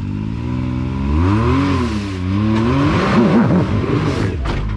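Side-by-side UTV engine revving up and down repeatedly as the machine climbs a rock ledge. A couple of sharp knocks come near the end.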